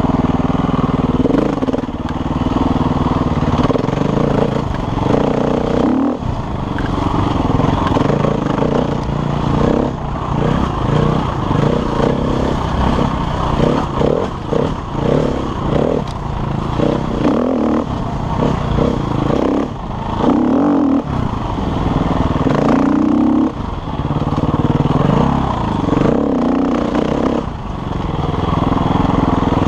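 KTM enduro dirt bike ridden on a trail, its engine note rising and falling constantly as the throttle is rolled on and off, choppily in places.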